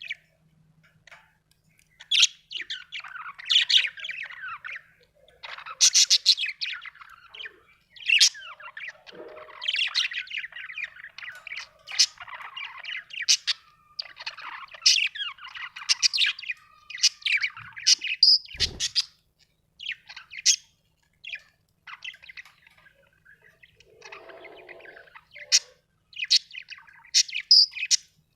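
Budgerigar chattering and warbling: bursts of rapid high chirps and tweets with short pauses between them. A brief dull thump about two-thirds of the way through.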